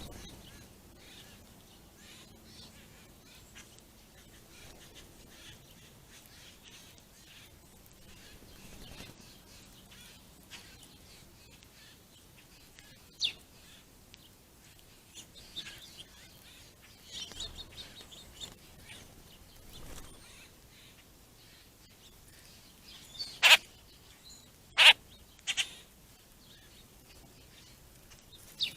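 Birds chirping and calling at a ground feeding spot: scattered faint chirps throughout, then three loud, sharp calls close together near the end.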